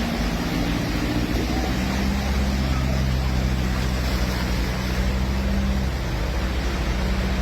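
An engine running steadily under a wash of rushing noise; its low drone shifts to a slightly different pitch about two seconds in.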